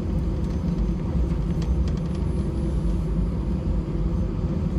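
Steady cabin rumble of an Airbus A320-211 taxiing after landing, its CFM56 engines at idle, with a faint steady hum above the low drone.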